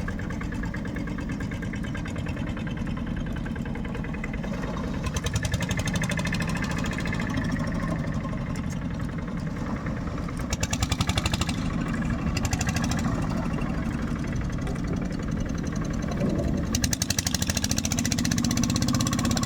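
Longtail boat engine running at low speed with a steady, rapid beat, getting louder for stretches about five, eleven and seventeen seconds in.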